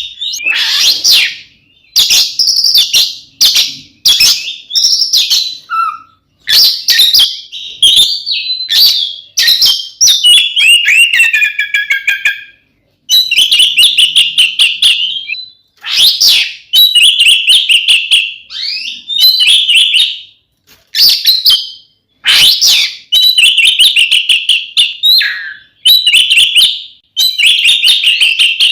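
An Oriental magpie-robin (kacer) sings loudly in its fighting-style song. It delivers phrases of one to three seconds, made of whistles, slurred notes and fast rattling trills, with short breaks between them.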